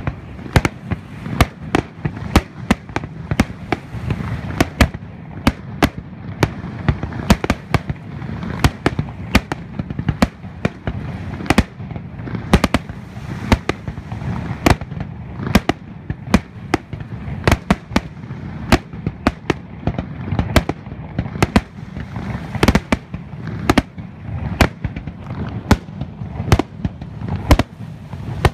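Aerial firework shells bursting in quick succession: sharp bangs about two a second, unevenly spaced, over a continuous low rumble from the barrage.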